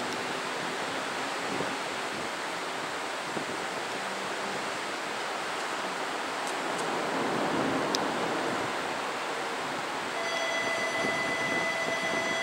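Steady hiss of a subway train standing at a platform, with a few faint clicks. About ten seconds in, a steady tone at several pitches at once comes in and holds.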